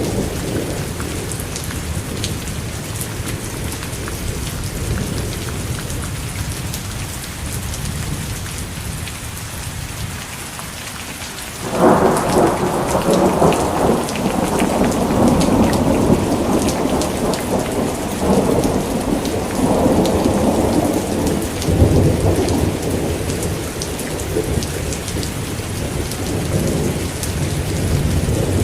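Steady heavy rain falling, with a roll of thunder that breaks in suddenly about twelve seconds in and rumbles on in waves to the end.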